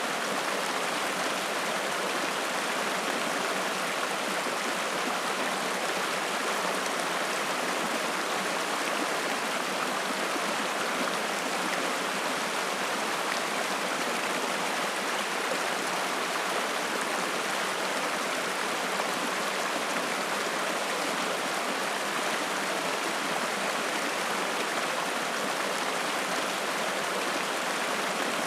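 Spring-fed mountain stream flowing and splashing, a steady, even rush of water with no change in level.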